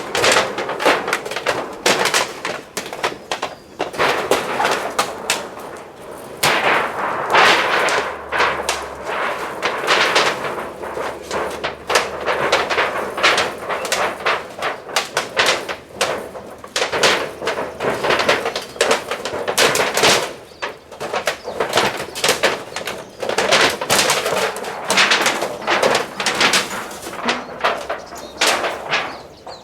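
Rapid clatter of sharp knocks and rattles from sheet metal being handled and worked by hand. It comes in dense runs of a few seconds with short pauses between.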